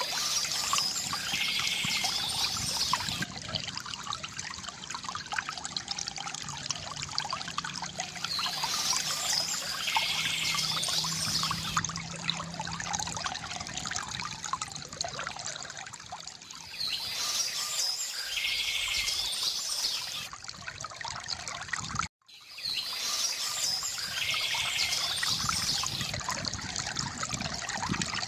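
Water steadily trickling and pouring from a bamboo fountain, with birds singing in four short bursts a few seconds apart. The sound cuts out for a moment about three-quarters of the way through, then resumes.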